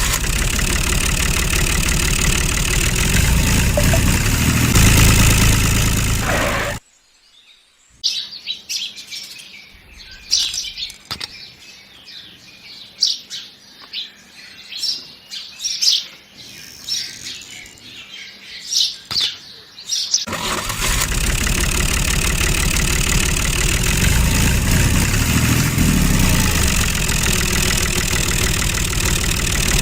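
Tractor engine running, cutting off suddenly about seven seconds in; birds chirping for about twelve seconds; then the engine running again steadily.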